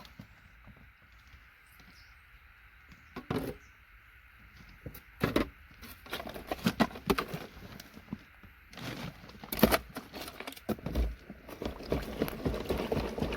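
Hydrochloric acid fizzing as it reacts with aluminium mixed into gold-plated scrap pins, a faint steady hiss. From about halfway there are irregular knocks and clicks of the scrap and container being handled.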